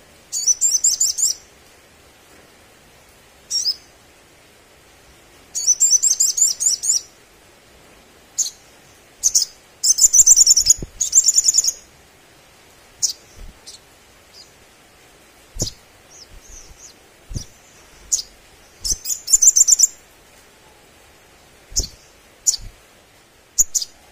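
A sogon sunbird singing in bursts of rapid, high chirping trills, each lasting about a second, with short single sharp notes between them. A few faint knocks come through in the second half.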